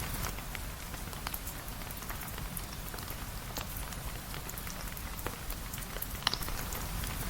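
Steady rain, with many small drop ticks scattered through it over a low steady rumble, and one sharper pop about six seconds in.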